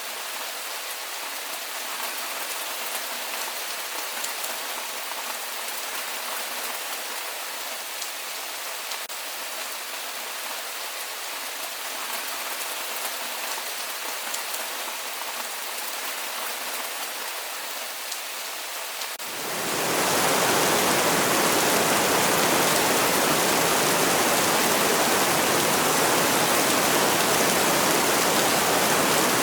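Rain falling steadily, a soft hiss with fine drop ticks. About two-thirds of the way through it switches within a second to a louder, deeper rush of heavy rain.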